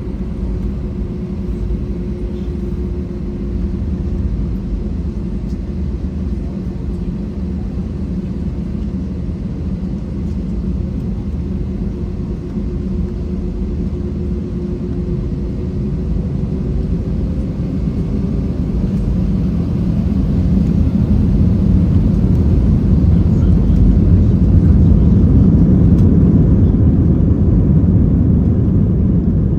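Airbus A320-200 cabin noise heard from a rear window seat: a steady low rumble of the engines and airframe, with a faint hum that fades out midway. The rumble grows louder about two-thirds of the way through.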